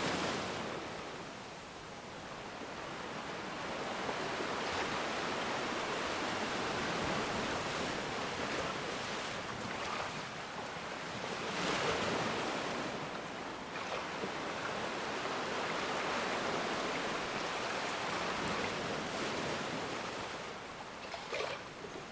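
Ocean surf: waves washing in and out in a steady hiss that swells and eases over several seconds, loudest about halfway through.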